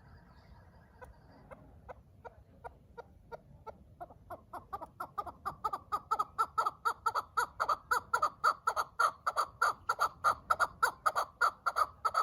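Chukar partridge calling: a long run of short, clucking chuck notes that starts slow and faint, then speeds up to about five a second and grows loud.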